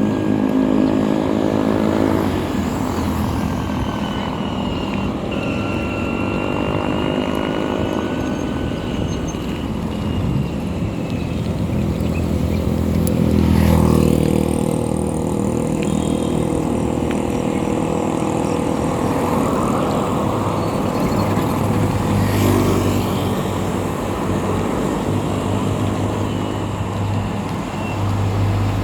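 Motor vehicle engine running on the move over continuous road and wind noise, its pitch rising and falling several times.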